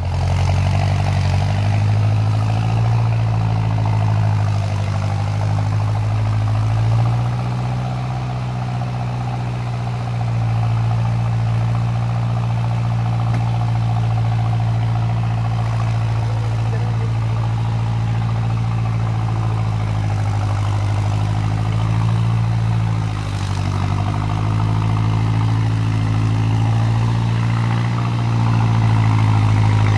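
Off-road 4x4's engine running at steady, raised revs as the vehicle labours slowly through deep mud. The note stays level, stepping slightly up or down in pitch a few times.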